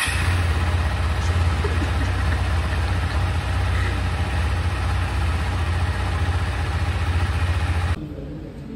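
KTM 390 Adventure's single-cylinder engine running steadily; the sound cuts off abruptly near the end.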